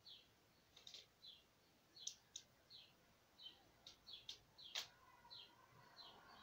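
Faint, quick chirps of a small bird repeating about twice a second, each a short falling note, with a few sharp clicks among them, the loudest near the end.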